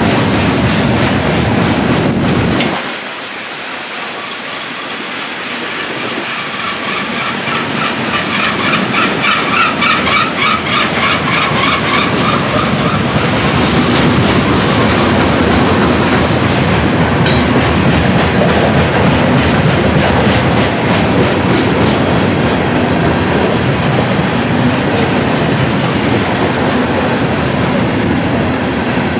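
Freight train of grain hopper cars rolling past, with steady wheel noise and clickety-clack over the rail joints. The low rumble drops away suddenly about three seconds in. A high wavering wheel squeal lasts for a few seconds around a third of the way through.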